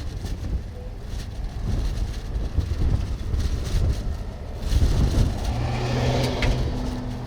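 Wind buffeting the microphone in gusts, with a vehicle engine humming steadily at a low pitch in the last couple of seconds.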